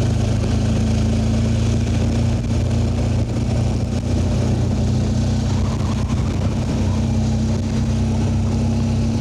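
BMW R1200GS flat-twin (boxer) engine running at a steady cruising speed while riding, its note holding pitch, with wind rushing over the bike.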